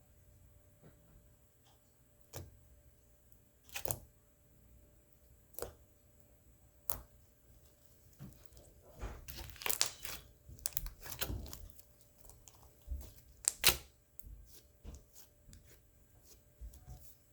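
Slime being squeezed and pulled apart by hand, giving irregular sticky pops and crackles, with a busier stretch of squishing about halfway through.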